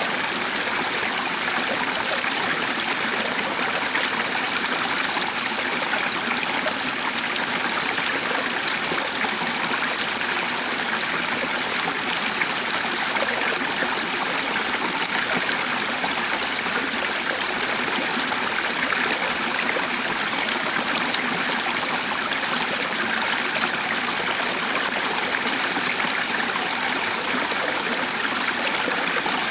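A stream running steadily: an even, unbroken rush of water.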